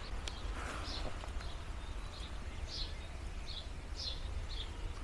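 A bird calling in short high chirps, repeated about every half second, over a steady low outdoor rumble.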